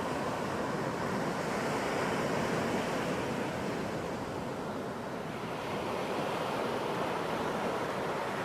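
Ocean surf breaking on a beach: a steady rush of waves that swells and eases, building about two seconds in, dropping back near the middle and building again.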